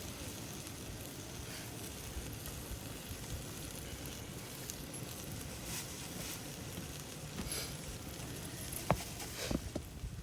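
Meat sizzling on a hot grill plate over a charcoal fire, a steady crackling hiss, with a few sharp clicks near the end.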